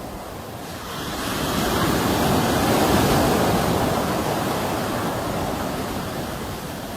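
Sea waves breaking on the shore: a wave swells from about a second in, peaks near the middle, then slowly washes back out.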